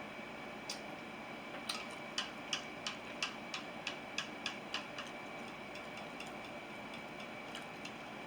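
Chewing close to the microphone: a run of soft, evenly spaced mouth clicks, about three a second, that stops about halfway through, with a few single clicks around it.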